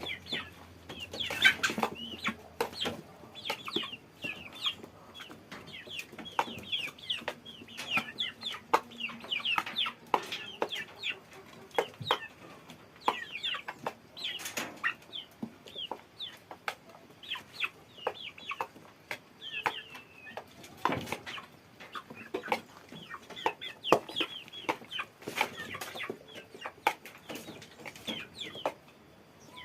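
Chickens clucking, with many short, high, falling calls overlapping throughout, and scattered sharp clicks and knocks.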